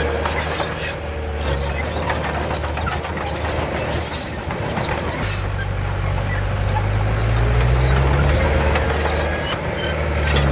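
Komatsu D31 bulldozer's diesel engine running under load, its pitch climbing from about halfway through as it works harder and peaking near the eight-second mark. Scattered high squeaks run over the top of it.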